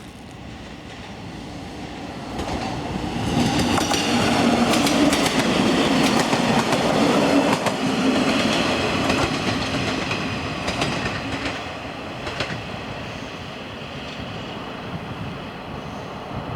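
A train passing close by, its wheels clicking over the rail joints. It builds about two seconds in, is loudest in the middle and fades away toward the end.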